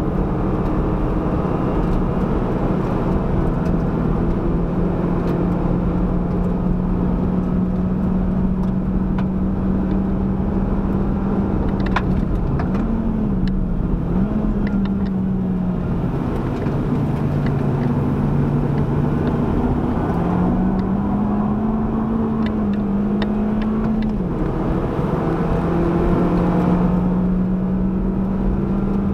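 Proton Inspira's four-cylinder engine under hard driving at speed, heard from inside the cabin with steady road and wind noise. The engine note holds a steady drone, then dips and climbs again several times as the revs change.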